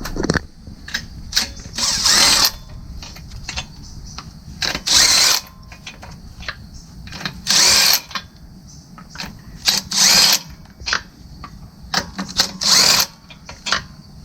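Power tool, likely an impact wrench, spinning lug nuts off a car wheel in five short bursts of about half a second each, with small clicks and clatter in between.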